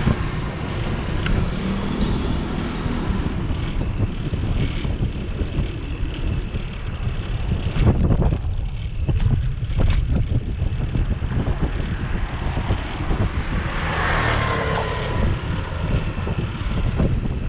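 Wind rumbling on a bike-mounted camera's microphone while riding a bicycle, over the bike's rattle on the path, with a few sharp knocks about eight to ten seconds in.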